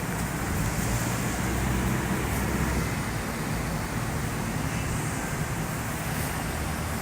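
Steady rumble of a deck boat underway: its motor running, with wind and water noise.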